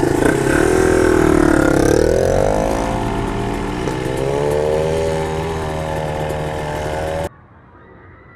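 Dirt bike engine running close by: the pitch dips, then rises as the throttle opens and holds steady. It cuts off suddenly near the end, leaving a faint background.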